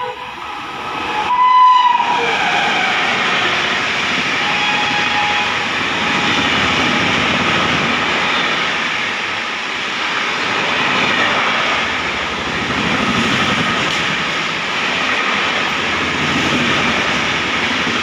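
An express train's horn sounds one short blast about a second and a half in. Then the electric-hauled express passes close by at high speed: a loud, steady rush of wheel and air noise with clattering coaches.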